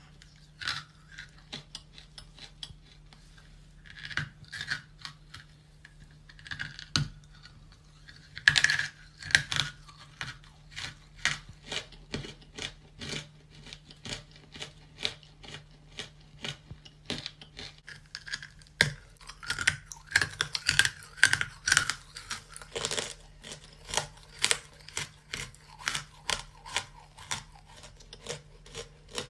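Close-up crunching as a hard grey lump of chalky clay is bitten and chewed by mouth: scattered crisp crunches at first, then from about a third of the way in a quick, steady run of sharp crunches, about two to three a second. A faint steady hum runs underneath.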